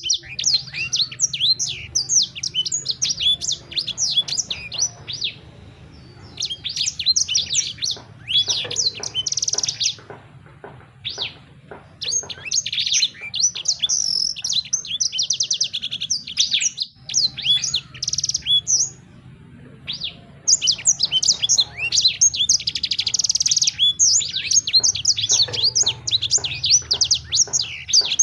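A songbird singing: bursts of rapid, high chirping notes lasting several seconds, broken by short pauses, with a faint low hum underneath.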